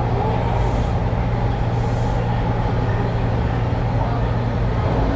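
Toronto subway train running between stations, heard from inside the car: a steady low rumble and hum of the motors and wheels on the rails, with two brief hisses about a second and two seconds in.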